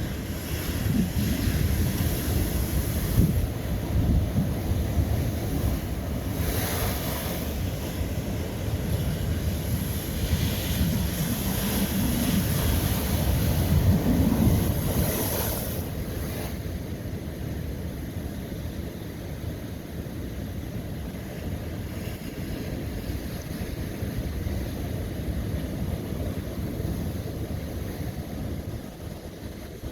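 Ocean waves breaking and washing over old lava rock, a rushing surf that swells to a peak about halfway through, then eases to a lower wash. There is wind noise on the microphone throughout.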